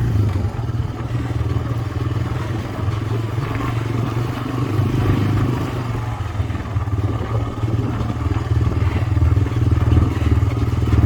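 Four-wheeler (ATV) engine running steadily with a low drone.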